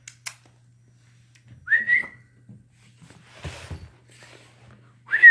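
A person whistling to call a cat: a short upward-sliding whistle about two seconds in, then another, warbling whistle starting near the end. A brief rustle comes between them.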